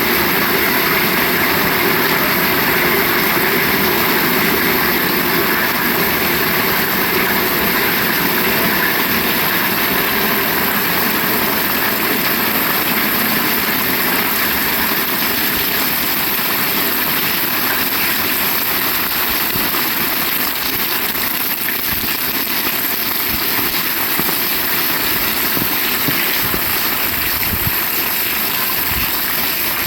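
Heavy rain falling steadily. The hiss holds at an even level throughout, with a low engine hum under it in the first part that fades out.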